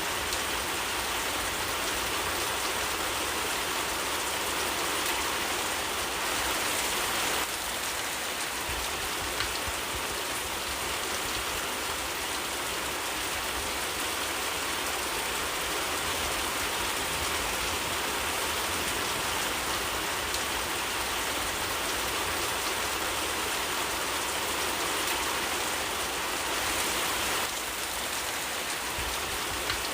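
Steady rainfall, an even hiss of many drops, its texture shifting slightly about seven seconds in and again near the end.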